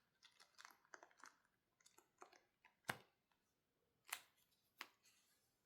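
Faint clicks and taps from a picture book being handled and its page turned, with three sharper taps in the second half.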